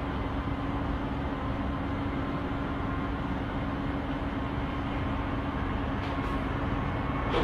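Steady vehicle noise with a constant low hum.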